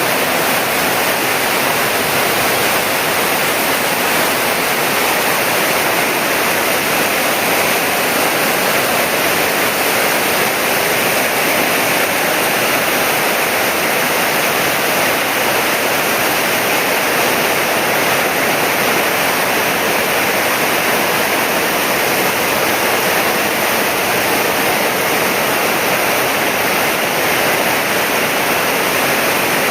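Heavy tropical rain pouring down, a loud, steady, dense hiss that does not let up.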